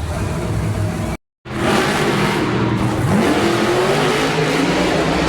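Grave Digger monster truck's engine revving hard, its pitch climbing sharply about three seconds in. The sound cuts out completely for a moment about a second in.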